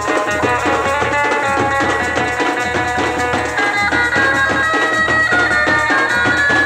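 Indian folk music: drums keep a steady beat under a sustained, reedy melody line that holds long notes.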